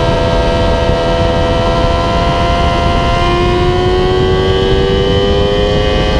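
Yamaha YZF-R6 inline-four sportbike engine at high revs under acceleration through an MGP Growler exhaust, its whining note steady at first, then rising slowly in pitch from about halfway through. Heavy wind rush on the camera microphone runs underneath.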